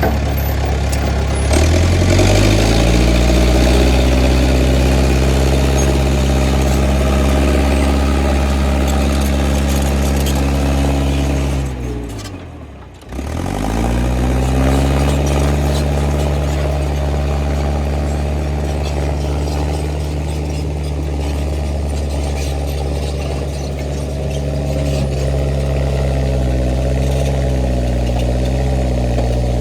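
International 125 crawler loader's engine running. Its speed rises about two seconds in. About halfway through, the engine speed falls steeply, nearly to a stop, then climbs straight back up within about a second. It then runs steadily, wavering slightly near the end.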